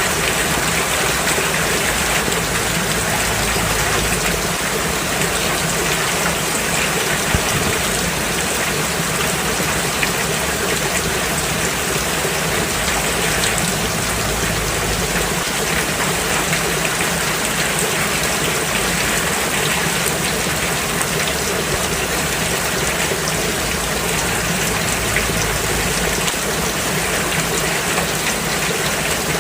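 Steady rain falling on a road, an even hiss of drops with the odd louder patter.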